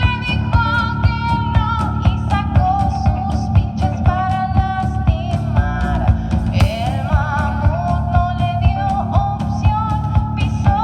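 Live rock band playing, with drums keeping a steady beat and a melody line sliding over it.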